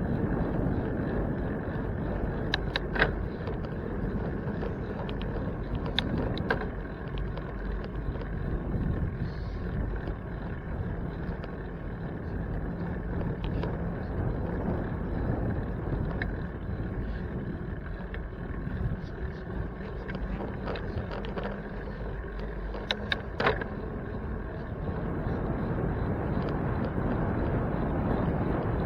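Steady rumble of wind and road noise from a bicycle ride, with a few sharp clicks or rattles scattered through it.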